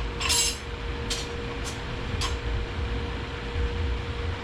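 A few light clicks and clinks of clutch plates being set into an automatic transmission's clutch drum: one just after the start, the loudest, then three more spaced about half a second apart. A steady low shop hum with a faint steady whine runs underneath.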